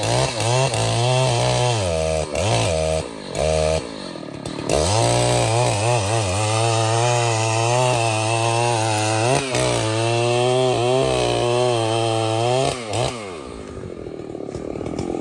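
Two-stroke chainsaw blipped up and down several times, then held at high revs for about eight seconds with small dips in pitch. It drops back to a low idle near the end.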